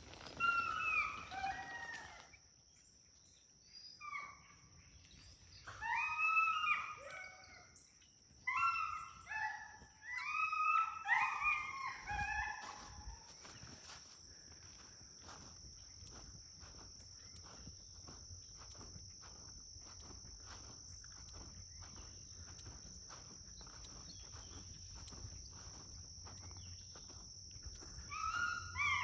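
Dogs barking in clusters of short calls over the first dozen seconds and again near the end, with a steady high drone of insects throughout.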